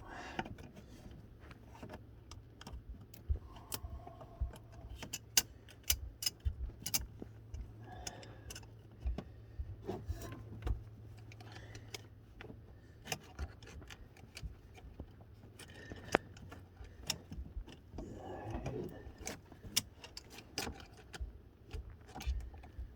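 Scattered metallic clicks, taps and small clinks of hand tools and engine parts being handled while working at a hose's pinch clamp, over a steady low hum.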